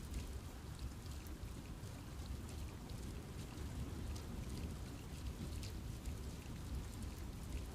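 Steady rain falling in a forest, with many separate drops ticking on leaves over a low, even rumble.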